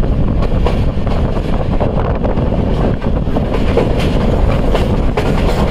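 Pakistan Railways passenger train running along the track, heard from the open coach doorway: a steady noise of the wheels on the rails, with wind buffeting the microphone.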